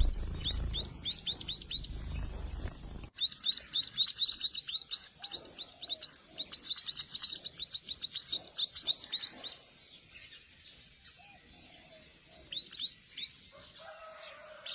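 Young munias giving rapid, repeated high begging chirps, several a second, while being hand-fed; the chirping stops about nine and a half seconds in, with a few more chirps near the end. A low rumble sits under the first three seconds.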